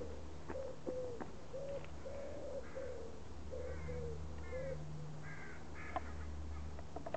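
Riverside birds calling: a run of short low notes about two a second that stops a little past halfway, with higher calls in the middle, over a steady low hum and a few sharp clicks.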